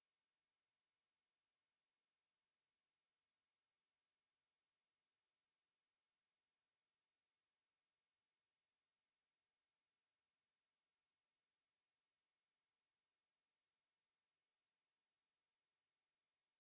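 A steady, high-pitched pure sine tone at 10766 Hz, an electronically generated test tone used to test speakers and to shake dust and water out of them.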